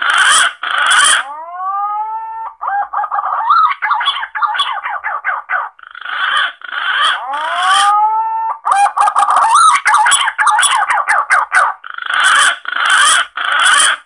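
Punai (green pigeon) calls played as a hunting lure: harsh, grating notes, long rising whistles, and quick runs of warbling notes, repeated in a cycle.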